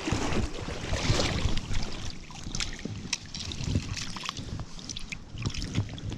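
Water splashing and trickling with scattered clicks and knocks while a small brown trout is handled at the stream's edge; the splashing is heaviest in the first couple of seconds.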